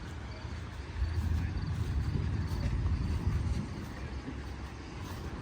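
Low rumble of an engine running, growing louder about a second in and easing back a couple of seconds later.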